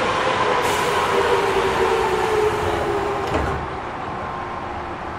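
Inside an Odakyu 1000 series electric train braking into a station: the motor inverter's tone falls slowly in pitch over wheel and track noise. About three and a half seconds in, a thump comes as the train stops, and a quieter steady hum is left.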